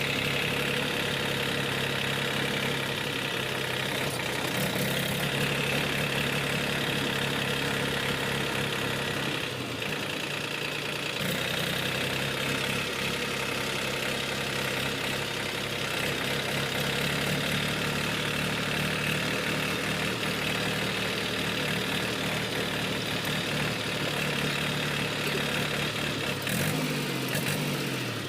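Powertrac Euro 50 tractor's three-cylinder diesel engine idling steadily, its pitch shifting briefly near the end.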